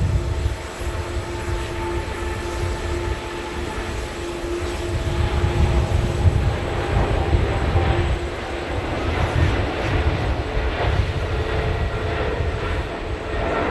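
Jet airliner engines running, a steady whine over a low rumble; the pitch of the whine shifts about halfway through.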